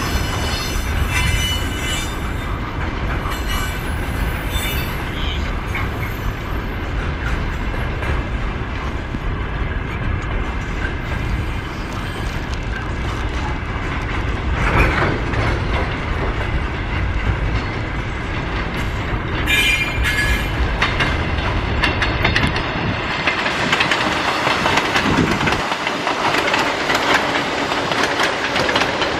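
Container freight train wagons rolling past: a steady rumble with clacking over rail joints and intermittent thin wheel squeal. In the last few seconds an ER2R electric multiple unit runs past closer, and a brighter rolling rush of wheels takes over as the freight rumble fades.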